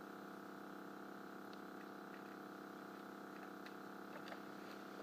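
Faint steady electrical hum with a few light clicks scattered through it.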